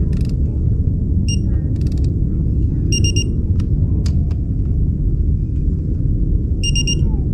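Torque wrench on the connecting-rod cap bolts: short electronic beeps three times, the signal that the set torque is reached, with a few ratchet clicks between. A steady low rumble runs underneath.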